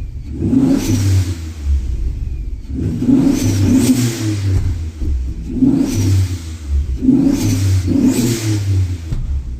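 Infiniti G35 coupe's swapped VQ25DET turbocharged V6 with a big turbo being revved in repeated blips, about four surges, some doubled. Each rev brings a hiss and a short falling whistle as it drops back.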